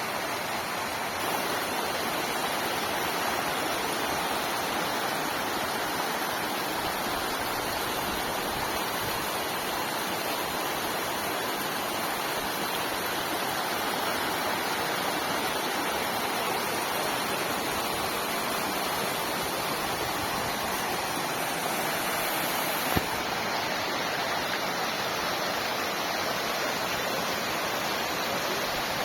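Waterfall rushing in a steady, even roar of falling water, with one brief click about three-quarters of the way through.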